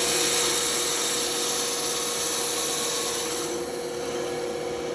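Bandsaw running steadily with its blade cutting through wood: an even, rasping noise over a constant motor hum and a high whine.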